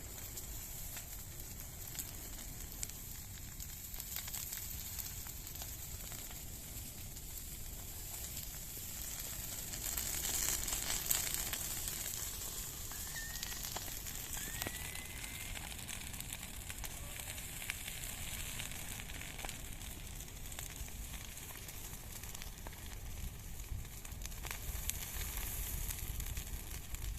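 Bonfire burning, crackling and hissing with many small pops, a little louder about ten seconds in.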